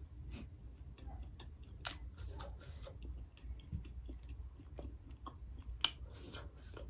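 Close-miked chewing and mouth sounds of a person eating by hand, with scattered small clicks and two sharper clicks, about two seconds in and near the end.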